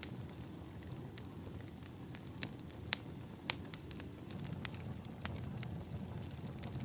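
Fireplace fire crackling over a steady low rumble, with irregular sharp pops; the two loudest come near the middle.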